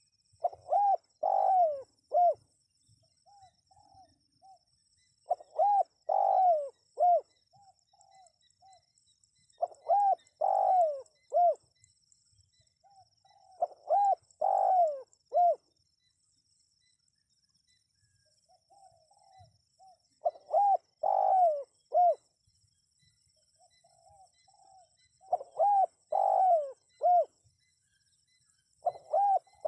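Spotted dove (tekukur) cooing: phrases of several quick, low coos, repeated about every four to five seconds, with softer short coos in between.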